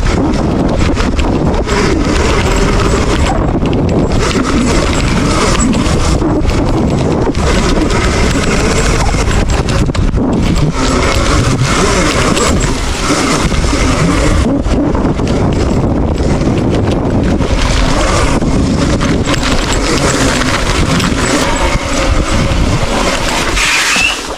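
Dirt bike being ridden, its motor pitch rising and falling, under a loud continuous rushing noise on the microphone.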